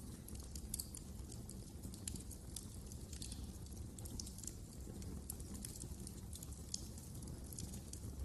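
Wood fire crackling in a fireplace: irregular sharp snaps and pops over a low, steady rumble of the burning fire.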